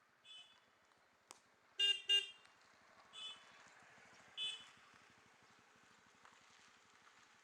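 Oriental pied hornbill calling in short, pitched notes: a faint call, two loud calls in quick succession about two seconds in, then two fainter calls. A single sharp click comes just before the loud pair.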